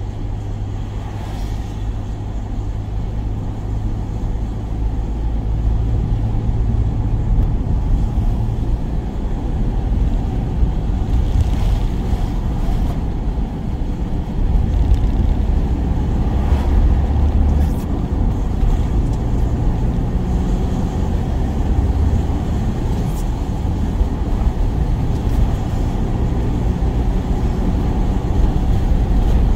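Work van being driven: steady low engine and road noise.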